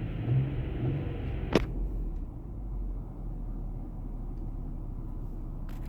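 The Lincoln MKX's 3.7-litre V6 idling, a steady low rumble heard inside the cabin. A single sharp click comes about one and a half seconds in, after which the higher hiss drops away and only the low rumble remains.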